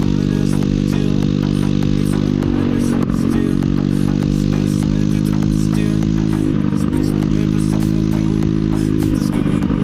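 150 cc scooter engine running at steady high revs while riding, easing off briefly a few times around 3, 6.5 and 9 seconds in.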